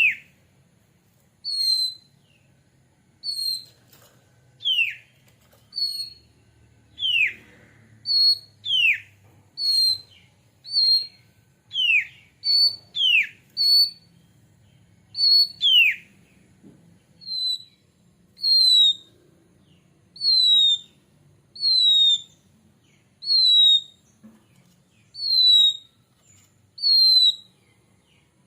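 Oriental magpie-robin giving loud, clear single whistles about one a second. In the first half long notes slide sharply downward, alternating with short high notes. From about halfway on it switches to short, slightly falling high whistles.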